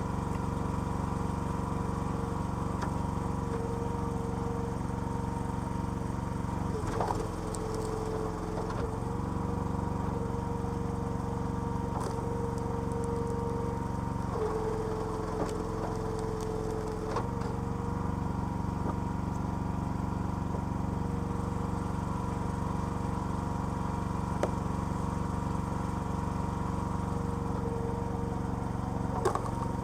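Small petrol engine of a homemade hydraulic log splitter running steadily, its note changing briefly twice, with a few short sharp knocks.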